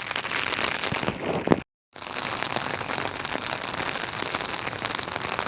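Heavy rain falling and pattering steadily, with a few knocks in the first second and a half and a short, complete dropout of the sound just under two seconds in.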